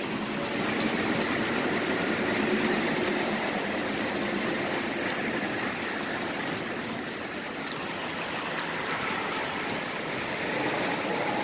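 Steady heavy rain falling, with scattered sharp ticks of drops hitting nearby surfaces.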